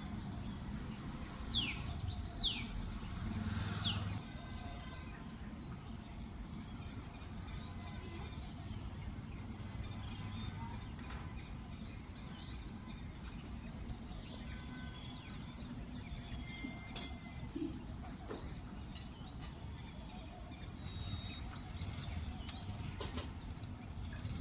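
Small birds chirping and twittering, with a few quick downward-sweeping whistles in the first few seconds, over a steady low background rumble.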